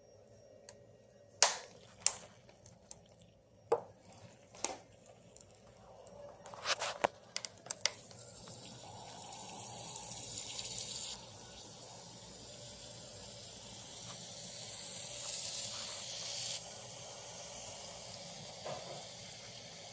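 A few sharp knocks, then water rushing and hissing out of a leaking supply pipe in a concrete slab once the water is turned on, rising within a couple of seconds and then running steadily.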